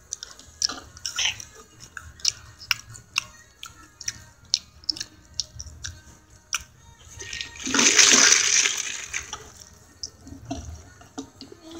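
Close-up eating noises: wet chewing with many sharp mouth clicks, then a loud slurp lasting about two seconds past the middle, as through a straw from a fountain drink.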